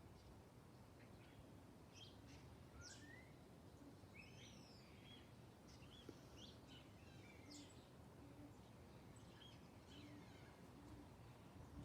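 Faint chirps and short whistled calls of small wild birds, scattered and irregular, over a low steady outdoor background noise.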